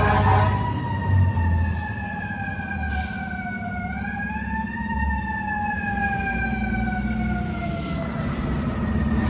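A fire truck's siren winding down in a long, slow falling tone. It picks up briefly about four seconds in, then sinks again and dies out near the end, over the truck's steady engine hum.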